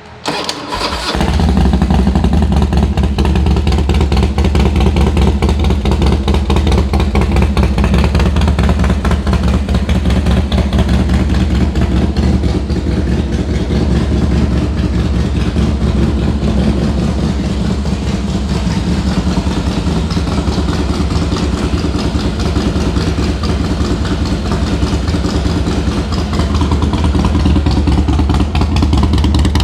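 2004 Harley-Davidson Softail CVO Deuce V-twin, through a Thunderheader exhaust, starts up in the first second or so and then idles steadily with an even, loping beat. The engine runs well, without any issues.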